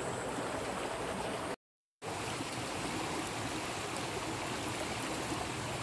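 Water flowing steadily in a rice-field irrigation channel, a constant rushing. About one and a half seconds in it drops out completely for under half a second at an edit cut, then carries on unchanged.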